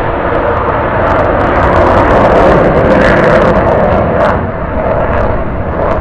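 Loud roar of an F-35A Lightning II's F135 turbofan jet engine as the fighter flies past. It swells to its loudest about halfway through and eases off slightly afterwards.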